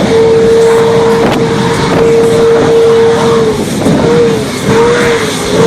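Aircraft engine running with a loud, steady whine over a rumble. Near the end the whine wavers up and down three times.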